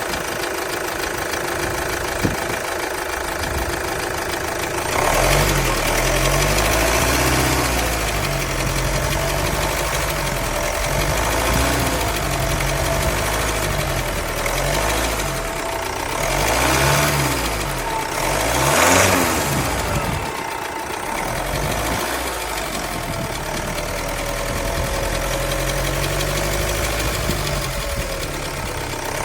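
Vauxhall Insignia 2.0 CDTi (B20DTH) diesel engine idling, with a noise the owner puts down to the timing chain. The sound changes character about five seconds in and swells briefly twice a little past halfway.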